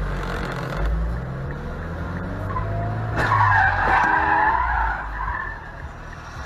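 A car's tyres skidding for about two seconds, starting with a sharp knock about three seconds in, over a low engine rumble.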